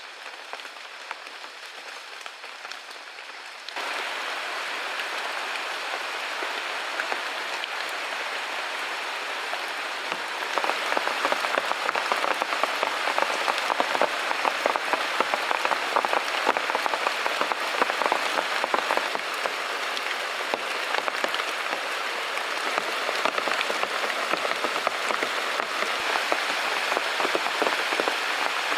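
Steady rainfall with many separate drop hits. It gets louder abruptly about four seconds in and again about ten seconds in.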